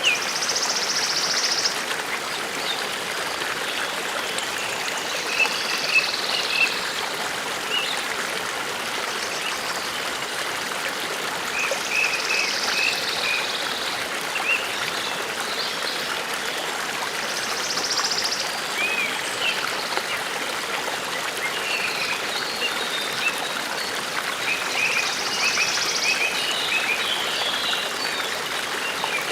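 A forest stream babbling steadily, with birds calling over it in short groups of chirps and higher trilled calls every few seconds.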